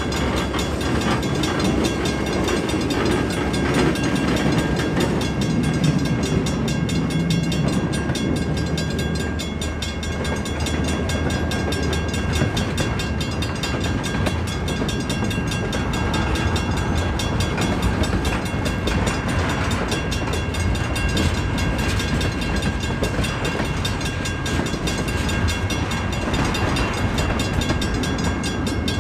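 Freight train moving slowly on a transfer track, with a diesel locomotive's engine running steadily and the rail cars rolling over the track.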